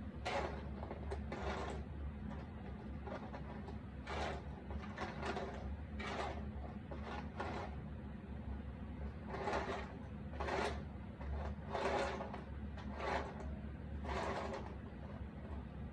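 Cardboard jigsaw puzzle pieces being handled: about a dozen short rustles, clicks and scrapes at uneven intervals as pieces are picked up, sifted and set down, over a steady low hum.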